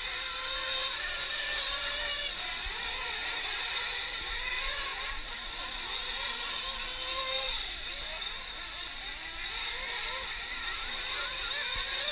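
Several nitro-powered RC truck engines racing together, a high-pitched whine whose pitch keeps rising and falling as the trucks accelerate and back off around the track.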